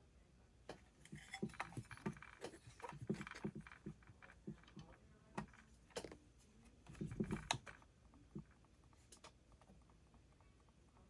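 Scattered light clicks and taps of hands handling chainsaw parts while pushing the ignition wires into their grommet, with a denser cluster about seven seconds in. The clicks die away after about eight seconds.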